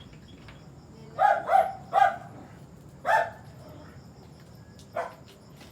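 A dog barking: three quick barks, another a second later and a shorter, fainter one near the end. Insects chirp steadily under it.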